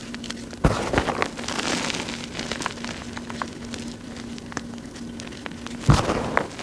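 Gym chalk chunks and powder crushed by hand: a run of fine crackling crunches, with two louder crunches about half a second in and near the end.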